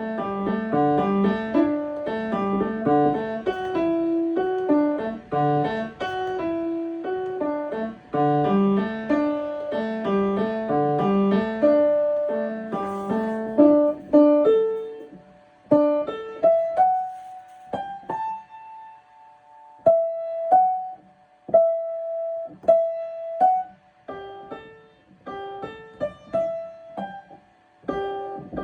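Solo piano: for about the first half, a busy passage of running notes over bass and chords. Then it thins to single melody notes and short held notes with pauses between them, played haltingly as in practice.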